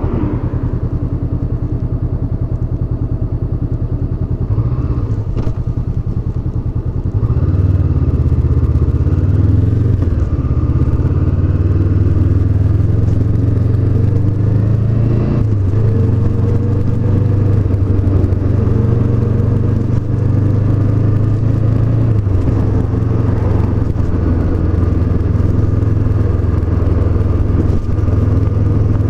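Honda CB500X's parallel-twin engine running on the move, heard from on board the bike, its note rising and falling with the throttle. It gets louder about seven seconds in.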